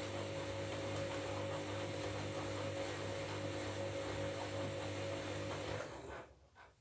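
Washing machine running mid-wash with a steady hum and water noise, which cuts off suddenly near the end, followed by a couple of faint clicks.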